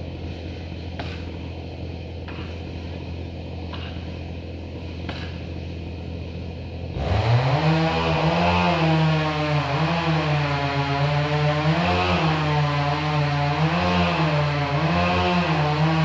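A steady low engine hum with faint regular clicks, then, about seven seconds in, a chainsaw engine revs up fast and runs at high speed. Its pitch wavers and dips again and again, as it does under load while cutting.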